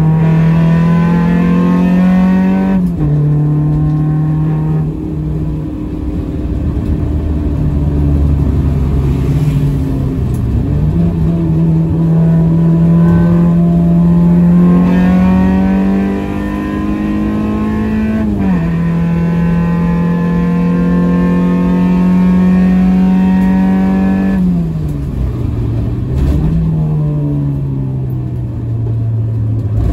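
Honda Accord CB7's swapped H-series four-cylinder engine at full throttle, heard from inside the cabin. Its note climbs in each gear and drops sharply at the upshifts, then sinks as the car slows near the end, with a short rise before it falls again.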